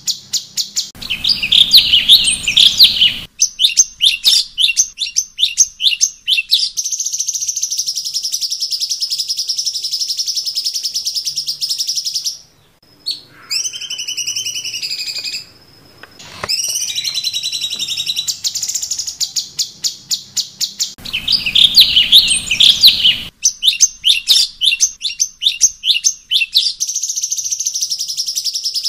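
Cucak cungkok singing in a recorded masteran track: long runs of rapid, high repeated chirps and trills, broken in the middle by a few slurred whistled notes, with the same phrase sequence coming round again near the end as the recording loops.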